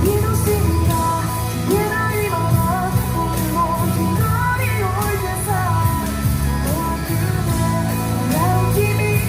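Rock song played live by street musicians: a singer over amplified band backing with guitar, bass notes and a steady beat.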